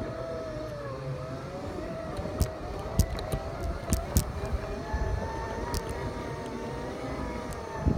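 Segway's electric motors whining, the pitch sagging and rising as the speed changes, with a few short knocks from the wheels going over rough ground.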